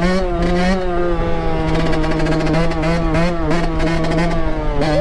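Two-stroke 125 cc dirt bike engine (2006 Yamaha YZ125) being ridden at high revs. Its pitch wavers up and down as the throttle is worked, rising sharply near the end.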